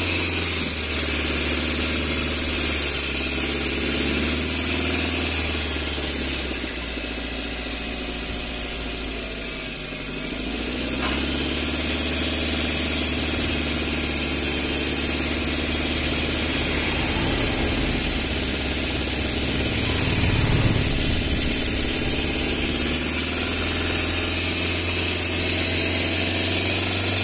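Chevrolet Spark's petrol engine idling steadily under an open bonnet, dipping slightly in level about a third of the way through.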